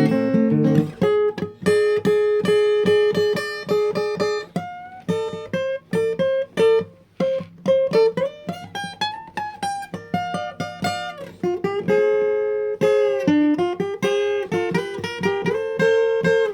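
Acoustic guitar playing an instrumental passage of single plucked notes and chords, with one note sliding up and back down about halfway through.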